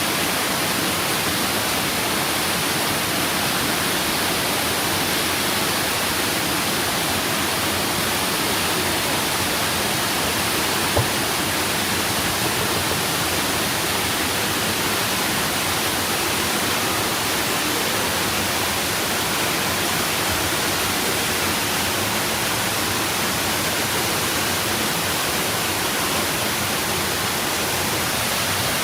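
Waterfall: a steady, loud rush of falling water, with a single click about eleven seconds in.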